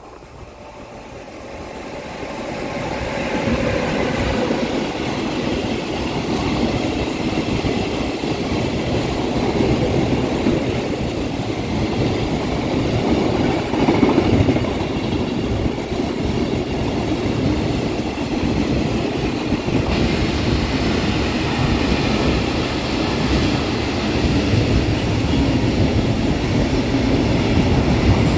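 Class 186 electric locomotive hauling a freight train through a station, then its covered freight wagons rolling past: a dense rumble of steel wheels on rail that builds over the first few seconds as the train draws near, then holds steady, loud, as wagon after wagon goes by.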